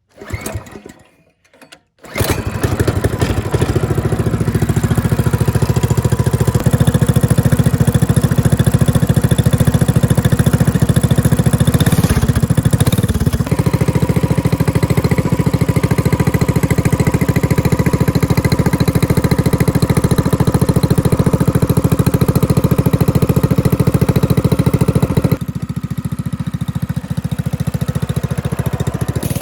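Coleman CT200U-EX mini bike's 196cc single-cylinder engine starting after a brief first attempt and running loudly through an aftermarket straight pipe. It settles to a lower level about 25 seconds in.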